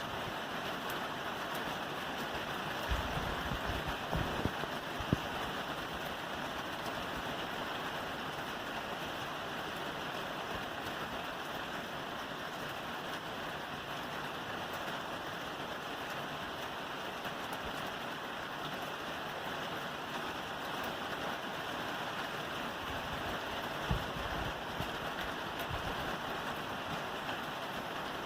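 Steady rain falling on a roof, an even hiss of many drops, with a few brief low thuds about three to five seconds in and again near the end.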